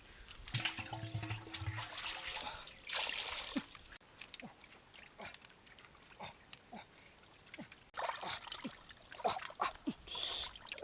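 Wet smacking and chewing sounds of eating: many short clicks and smacks, with some water dripping and a brief low hum near the start.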